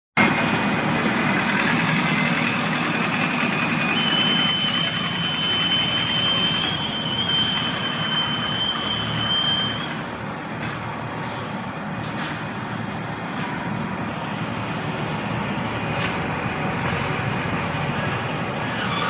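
Steady engine-like mechanical noise, with a thin high whine from about four to ten seconds in, a little quieter after that.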